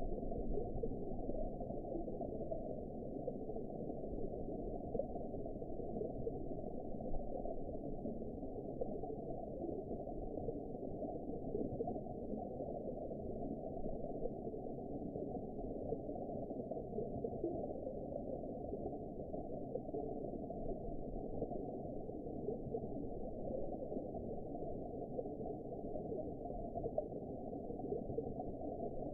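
Steady, muffled underwater ambience: a low, even rush of water with no high sounds at all, unchanging throughout.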